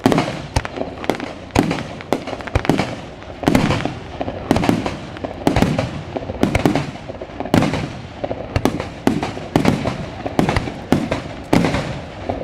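Aerial fireworks shells bursting in a rapid barrage, about one or two bangs a second, each trailing off into a rumbling echo.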